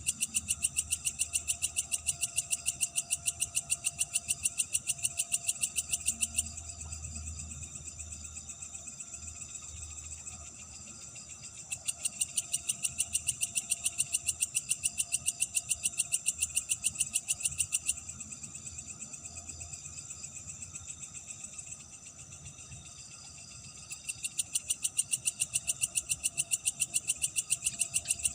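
Night insects: one calls with a loud, rapid, high-pitched pulsing chirp in three bouts of about six seconds, with pauses between, over a softer steady high trill from other insects and a faint low rumble.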